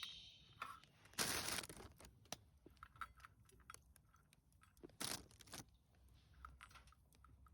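Things being handled: scattered light clicks and taps, with two short loud rustling, crinkling bursts, about a second in and about five seconds in.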